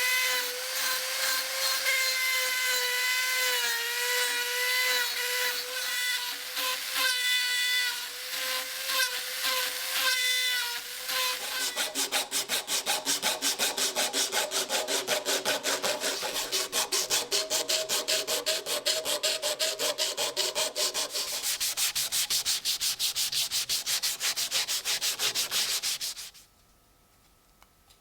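Sanding on the knife, likely its new walnut scales. A power tool's motor whine with grinding noise comes first, its pitch wavering and dipping under load. Then come quick back-and-forth hand sanding strokes, about four a second, which stop suddenly near the end.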